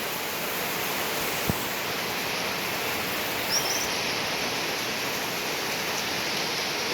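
Steady hiss of heavy rain falling, with a single click about a second and a half in and a brief high chirp about halfway through.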